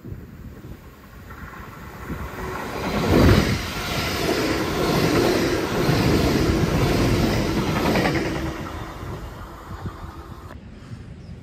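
Hitachi Intercity Express Train in GWR green passing close by at speed. Its noise builds as it approaches, is loudest as the front goes past about three seconds in, stays a steady rush of wheel and running noise while the coaches pass, then fades away.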